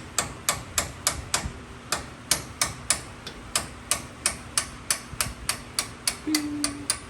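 Hammer driving a punch against the caliper pins of a 1988 Ford Bronco II's front brake caliper to knock them out, in a steady run of sharp strikes about three a second. The pins are moving well under the blows.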